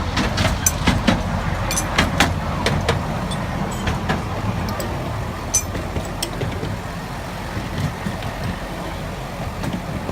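Miniature railway train running, with a steady low rumble and irregular clicks and knocks that thin out over the second half.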